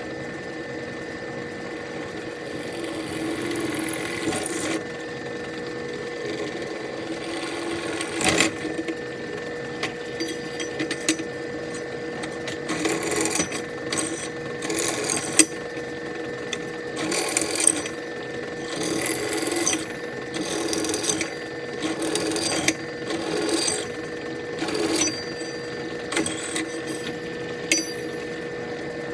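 Electric drill motor running while drilling holes through a steel Harley Sportster exhaust baffle, a steady whine. From about twelve seconds in come repeated short, louder bursts, about one a second.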